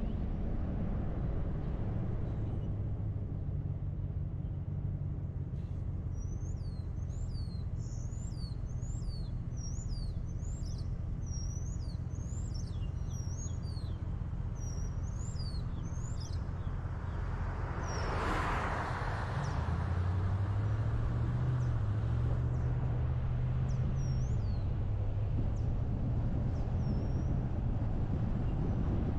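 Car driving with a steady low engine and road hum. Birds chirp in a quick string of short high notes from about 6 to 16 seconds in, and a brief whoosh swells and fades a little past halfway, after which the hum is slightly louder.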